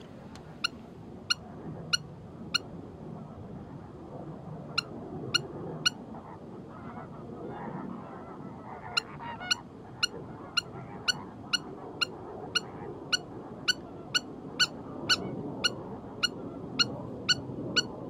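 A bird calling with short, sharp, honk-like notes. They come in a few small groups, then in a steady run of about two a second over the second half, over a steady background hiss.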